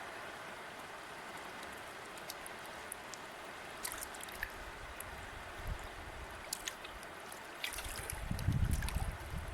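A river flowing with a steady rushing and trickling of water, with scattered small splashes. A low rumble comes in near the end and is the loudest part.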